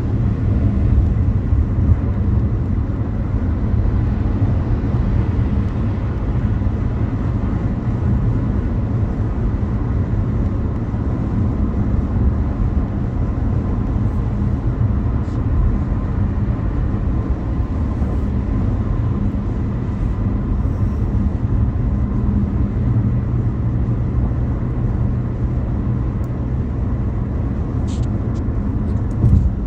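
A car driving, with a steady low rumble of road and engine noise. A brief click or knock comes near the end.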